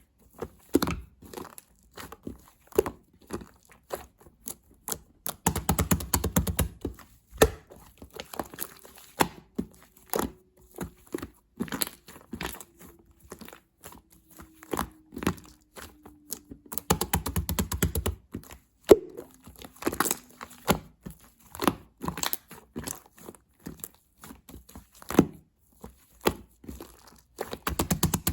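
Pink slime being squished and pressed by hand, giving crackling pops and clicks. The clicks come in dense rapid runs about six seconds in, around seventeen seconds, and near the end.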